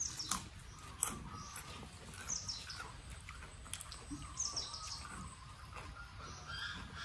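Small birds chirping, with short high calls that sweep downward in pitch and come again every couple of seconds, over steady twittering. A couple of sharp clicks sound near the start, the loudest about a second in.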